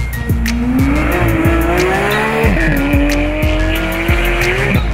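Porsche 911 flat-six accelerating hard, its pitch climbing, dropping sharply at an upshift about two and a half seconds in, then climbing again. Backing music with a steady beat runs underneath.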